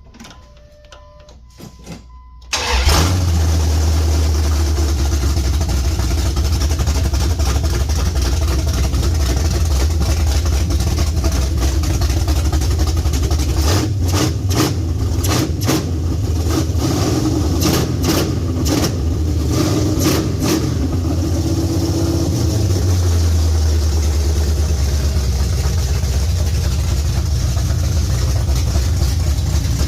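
Dodge Ram's Magnum stroker engine with a big cam on its first start: it catches about two and a half seconds in and runs loud and steady. A run of sharp cracks sounds between about 14 and 21 seconds.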